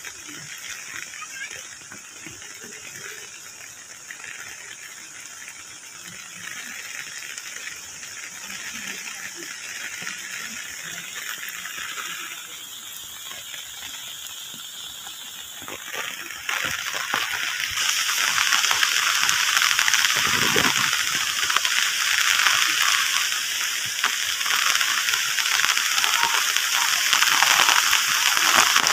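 Rain falling, a steady hiss of drops, growing clearly louder and heavier a little past halfway.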